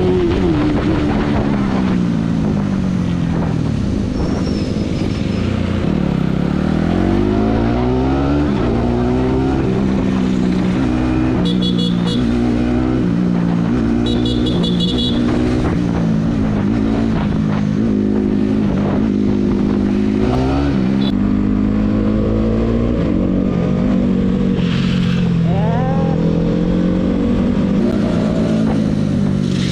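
Bajaj Pulsar NS200 single-cylinder motorcycle engine and exhaust heard from the rider's seat, revving hard up through the gears and dropping back again and again, its pitch rising and falling. A couple of short high beeps sound near the middle.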